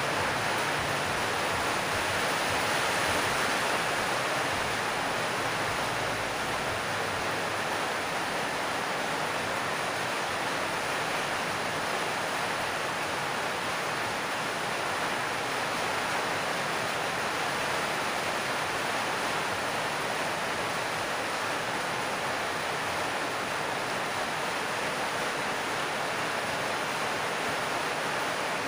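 Heavy rain on a metal roof: a steady, even hiss.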